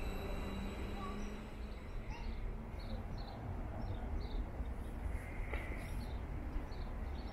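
A bird chirping repeatedly in short high calls from about two seconds in, over a steady low background rumble.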